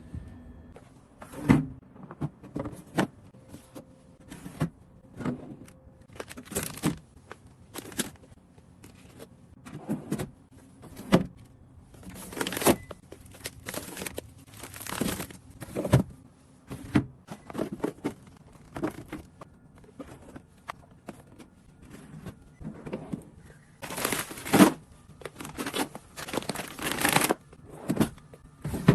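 Plastic packaging crinkling and rustling, with irregular short knocks and clatters of items being handled.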